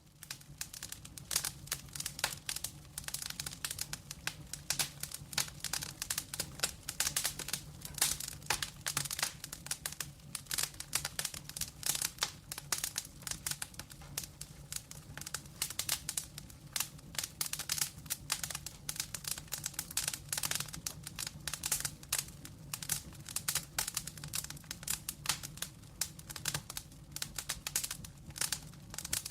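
Burning logs of a wood fire crackling, with dense, irregular pops and snaps over a low steady hum.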